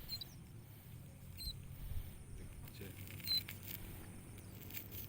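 Small ciblek koya (prinia) birds giving short high cheeps, about three spaced a second or two apart, mixed with faint clicks and rustles of handling.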